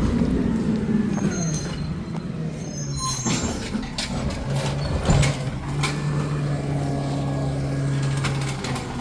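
Garbage truck running, its engine humming steadily, with a few sharp clanks about three to five seconds in.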